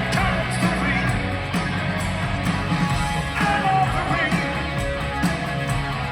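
Live rock band playing: electric guitar with bending lead notes over steady drums and bass.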